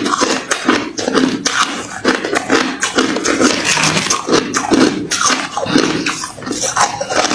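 Close-miked chewing of hard refrozen crushed ice: steady crunching with many sharp cracks and crackles, rising and falling with each bite about twice a second.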